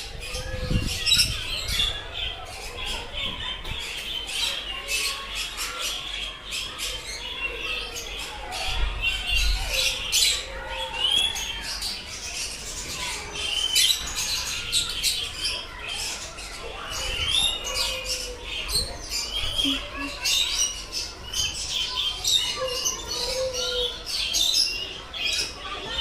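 A dense chorus of many birds chirping and squawking together, with many short, overlapping calls repeating throughout.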